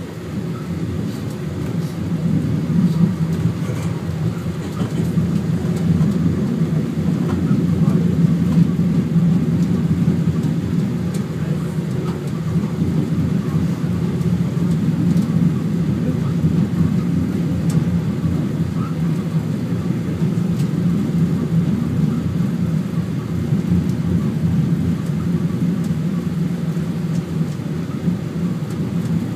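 Funicular railway car running up the track: a steady low rumble with a hum.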